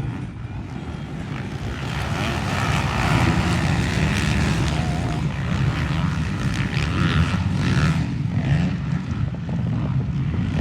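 A pack of motocross bikes racing off the start, many engines revving hard together; the noise builds over the first few seconds, then holds.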